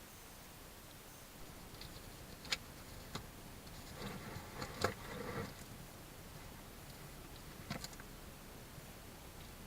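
A few sharp taps and clicks of a small animal moving and pecking at a feeding spot, with a brief scuffling flurry near the middle.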